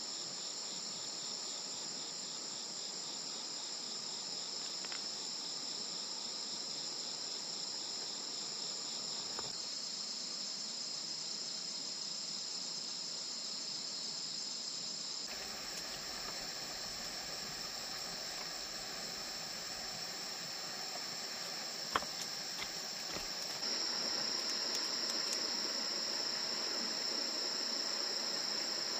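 A steady, high-pitched chorus of night insects chirring without a break, with a single sharp click about 22 seconds in. The chorus grows louder near the end.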